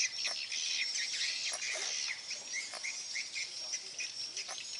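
Many small birds chirping at once, a dense chatter of short, high calls.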